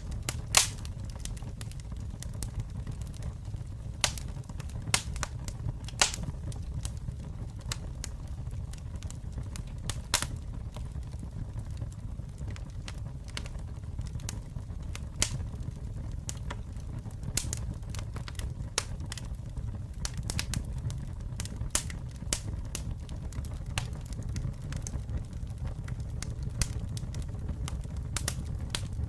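Campfire burning and crackling: irregular sharp pops and snaps from the burning wood, a few louder ones among many small ones, over a steady low rumble of the flames.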